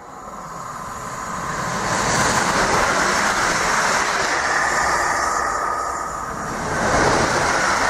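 Electric multiple-unit passenger train passing through the station at speed, a rushing rail and wheel noise that swells over the first two seconds and stays loud. The noise swells again about seven seconds in.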